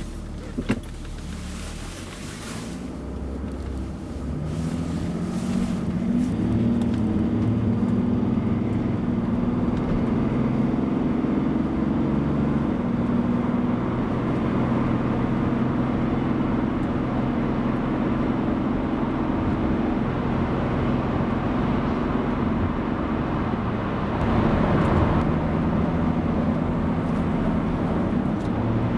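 A motor running steadily with an even hum, building up over the first few seconds. About 24 seconds in there is a brief rougher, noisier stretch before it settles again.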